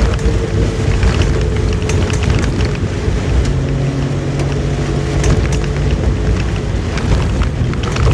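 Suzuki SJ30 Jimny's two-stroke three-cylinder engine running steadily while driving through heavy rain, with scattered sharp ticks of rain and wind noise over the engine drone.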